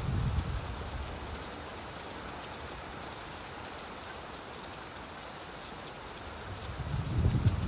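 Steady rain falling, with a low rumble of thunder fading out in the first half second and another one swelling up about seven seconds in.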